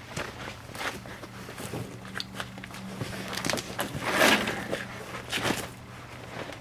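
Footsteps with scuffing and rustling as a piece of old carpet is fetched and handled, the loudest rustle about four seconds in. A faint steady low hum runs underneath.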